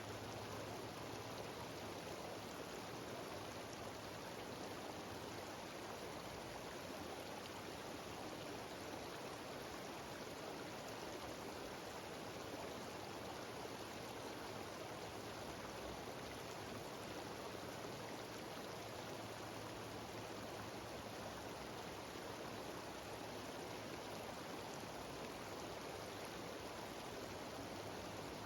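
Steady rushing of a cascading mountain stream and waterfall.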